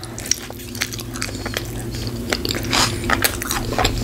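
A large bite into a Five Guys cheeseburger followed by chewing close to the microphone: moist smacking with many small sharp clicks all through.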